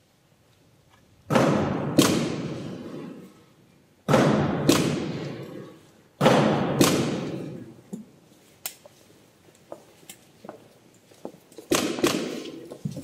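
Heavy thuds in pairs, each pair a knock and a second knock a moment later. The pairs come three times, a couple of seconds apart, and each rings out in the long echo of a large church. Smaller knocks and taps follow, then one more heavy pair near the end.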